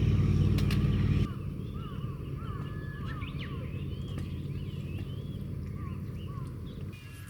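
A vehicle's engine runs for about a second, then stops abruptly. After that, many birds call outdoors in short, repeated chirps.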